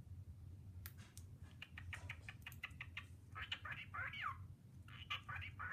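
Male cockatiel talking: a quick run of clicks starting about a second and a half in, then two bursts of warbled notes that rise and fall.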